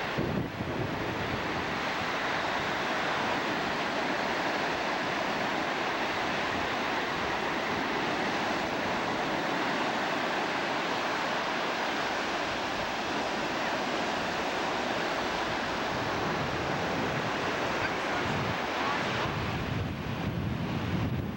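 Ocean surf washing steadily onto a sandy beach, with wind buffeting the microphone, more rumbly near the end.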